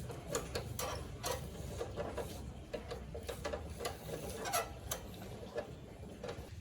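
Irregular light clicks and knocks, some a second apart and some in quick pairs, over a low steady hum.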